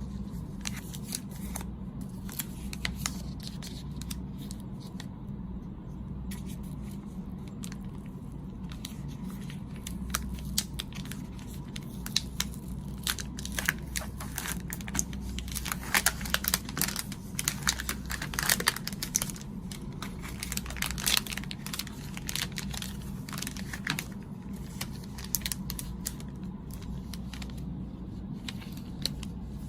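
Plastic snack packaging crinkling and tearing as it is handled and opened: a dense run of crackles and rustles, busiest in the middle, over a steady low hum.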